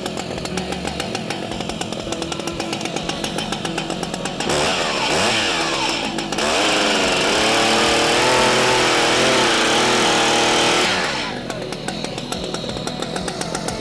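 Stihl MS 881 Magnum chainsaw with a 60-inch bar idling, then revved up to high speed for about five seconds with the pitch wavering, then dropping back to idle near the end. The chain is mounted backwards, so it isn't cutting at full throttle.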